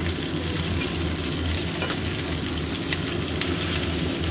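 Shrimp sizzling steadily in hot oil in a small nonstick pan, fried until done. Near the end, metal tongs move among them in the pan.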